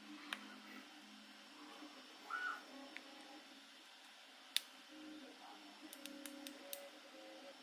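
Faint room tone with a few light, sharp clicks or taps: a louder one past the middle and a quick run of four or five near the end.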